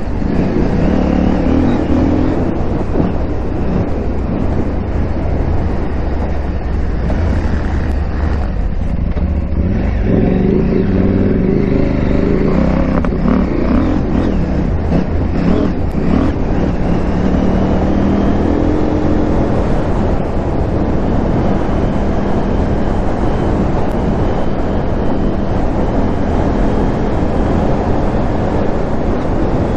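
KTM 890 Adventure R's parallel-twin engine running under way, its revs rising and falling several times, over a steady low rumble of tyres and wind.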